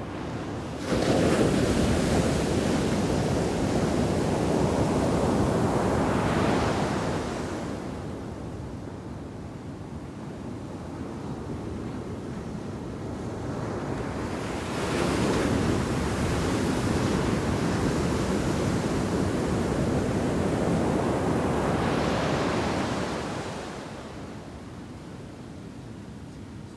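Heavy shore-break waves crashing on a sand beach: one breaks suddenly about a second in and washes for several seconds, then another builds midway, crashes and its wash fades near the end.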